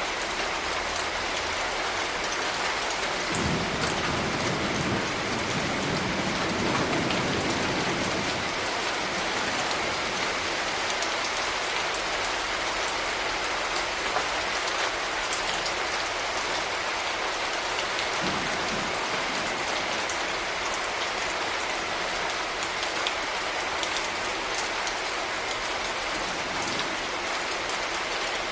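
Steady rain falling on hard surfaces, a dense even patter with scattered drop ticks. A low rumble swells and fades a few seconds in.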